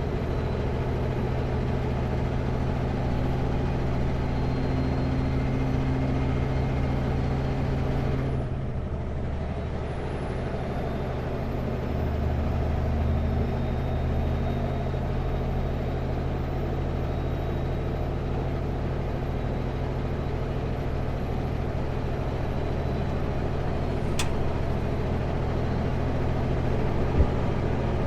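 Kenworth W900L semi truck's diesel engine running steadily on the highway, its note dropping briefly about eight seconds in, with a single sharp click near the end.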